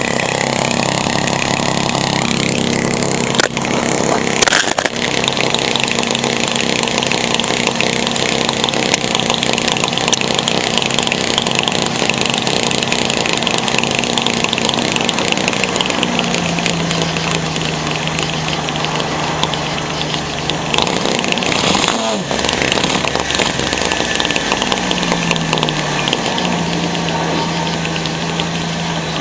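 1999 Ford Windstar minivan engine running with its exhaust blowing through a bicycle inner tube zip-tied over the tailpipe as a makeshift muffler. The steady engine note drops in pitch a few times, about halfway and again near the end, with a couple of sharp clicks early on.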